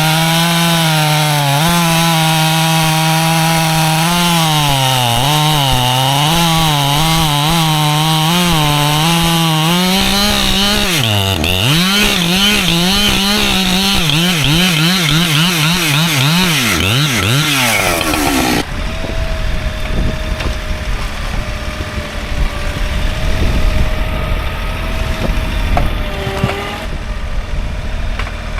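Husqvarna chainsaw running at high revs while bucking white oak logs, its pitch dipping and recovering as the chain loads up in the cut. About two-thirds of the way through the saw stops suddenly, leaving a low, steady engine rumble.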